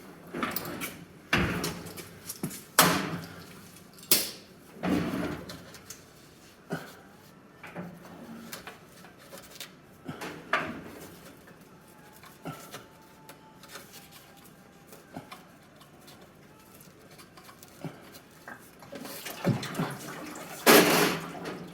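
Metal tools and the oil drain plug being handled: a string of separate clinks and clanks, the loudest near the end.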